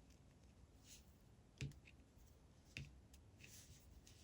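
Knitting needles clicking together twice as stitches are knitted off a double-pointed cable needle, with faint soft swishes in between.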